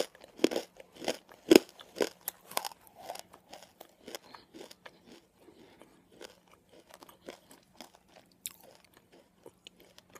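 Close-up chewing of nakumatt, a crunchy edible clay, with the lips closed. Loud crisp crunches come in the first two or three seconds, then give way to softer, gritty chewing.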